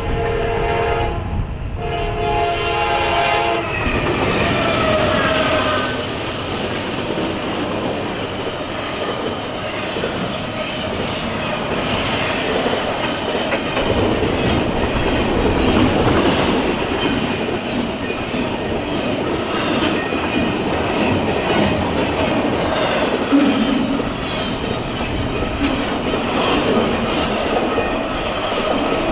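Freight locomotive air horn blowing, with a short break about a second in, and stopping about three and a half seconds in. After it comes the steady rumble and clickety-clack of freight cars rolling past.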